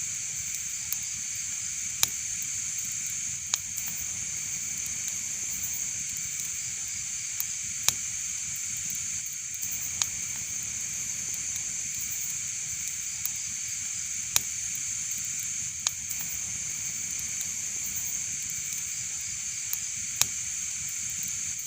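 Fire burning in a fireplace: a steady hiss with sharp pops and crackles every second or two at irregular intervals.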